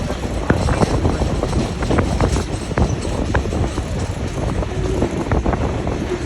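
Passenger train rolling along the track: a steady low rumble with frequent irregular clicks and rattles from the wheels and car, and some wind on the microphone.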